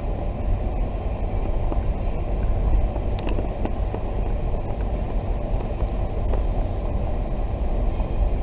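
Steady low rumble of a Jeep driving on snow-covered roads, heard from inside the cabin, with a few faint clicks.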